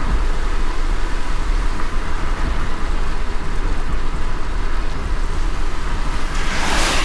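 A car driving on a wet road in light rain: a steady low road rumble under an even hiss. Near the end a brief, louder whoosh swells up.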